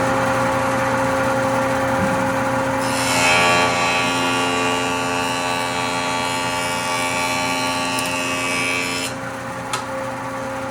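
Woodworking jointer starting up, its motor whine rising to a steady pitch within the first second. From about 3 s in, boards are fed across the cutterhead for about six seconds, adding a loud hissing cut over the hum. The machine keeps running after the cut ends.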